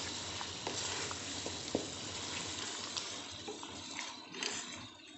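Mutton masala with tomatoes and green chillies frying over high heat in a pan, a steady sizzle, with a few light clicks as a wooden spoon stirs and scrapes through it. The sizzle fades near the end.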